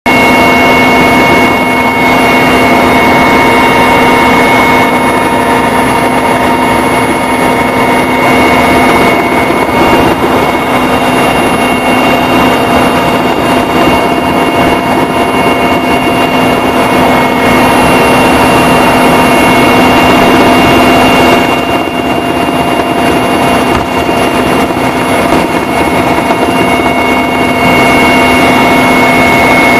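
Helicopter running steadily, a loud even drone with several unchanging tones layered over it.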